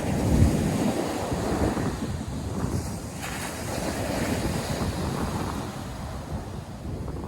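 North Sea surf washing and breaking on the beach, a steady rushing wash. Wind buffets the microphone with low rumbling gusts, the strongest about half a second in.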